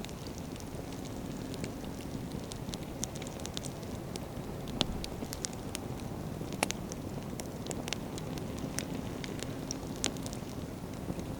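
Wood bonfire burning: a steady low rush of flame under frequent sharp crackles and pops from the burning firewood. Two louder pops come a little under two seconds apart near the middle.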